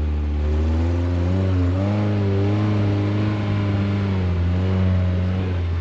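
Suzuki Samurai's engine and drivetrain heard from inside the cab while driving in four-wheel-drive high range through snow, a steady low drone with the engine note rising and falling a little with the throttle.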